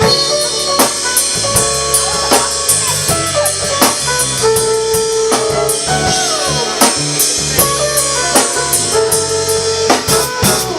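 A band playing an instrumental intro: drum kit with bass drum and rimshots keeping a steady beat under a bass line and held melodic notes, with a falling pitch slide about five seconds in.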